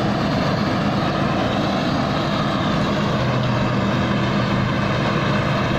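Rice combine harvester's engine running steadily under load while harvesting in deep mud.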